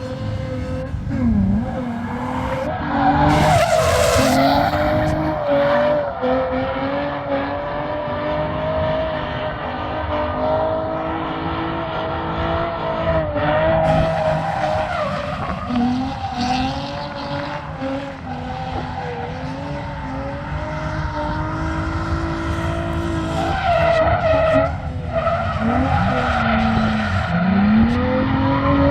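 Drift car engine held at high revs, its pitch dipping and climbing again several times as the throttle is worked, with the tires skidding and squealing.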